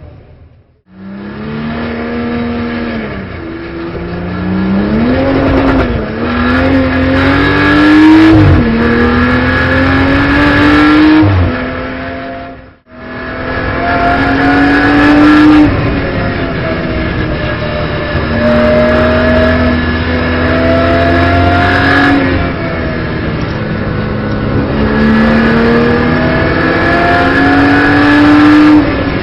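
Onboard sound of a BMW M240i Racing Cup car's turbocharged straight-six at racing speed, pulling up through the gears: the pitch climbs and drops back at each upshift, then holds high with a dip and a fresh climb near the end. The sound breaks off briefly twice, about a second in and near the middle.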